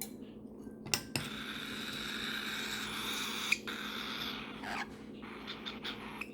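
Cockatiel chick's raspy food-begging call while being hand-fed formula, one long stretch of about three seconds, with a few small clicks around it.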